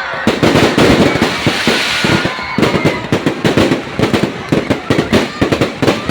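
Fireworks going off in a rapid, dense barrage of bangs and crackles, with a brief hiss over the first couple of seconds.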